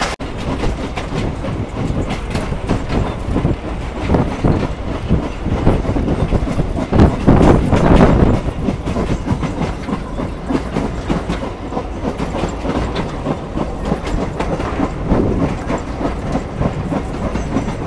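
Heritage steam train rolling along the line, heard from an open wagon: a steady rumble of wheels with quick clickety-clack over the rail joints. It gets louder for a stretch about seven seconds in.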